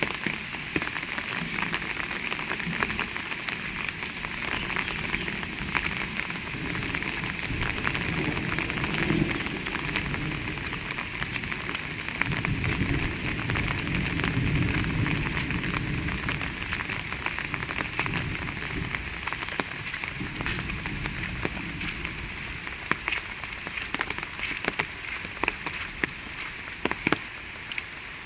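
Heavy rain falling steadily, with many sharp, close drop hits throughout. A low rumble swells in the middle.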